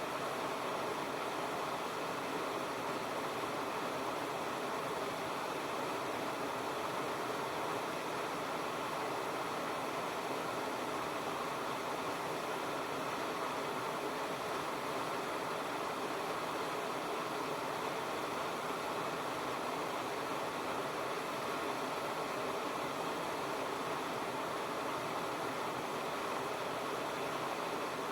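Waterfall pouring, a steady, unchanging rush of falling water.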